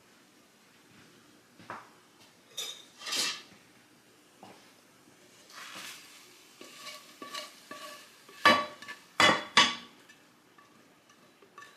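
Hard objects being handled and set down: a scattered run of clinks, knocks and rustles. The three loudest strikes come close together about two-thirds of the way through, each leaving a short ring.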